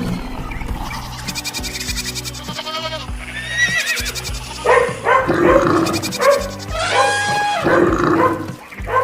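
Animated-stampede sound effects: a run of overlapping animal calls, several short pitched cries one after another from about halfway, over background music with a steady beat.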